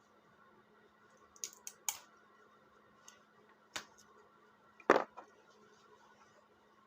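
A handful of sharp clicks and knocks of hard objects being handled, scattered and irregular, the loudest about five seconds in, over a faint steady hum.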